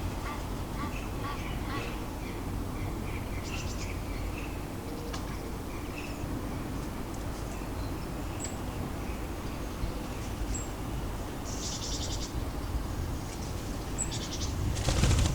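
Small garden birds calling at a feeder: a run of short chirps in the first few seconds, then scattered thin high notes and quick stuttering trills, over a steady low city rumble. A brief louder burst of noise comes near the end.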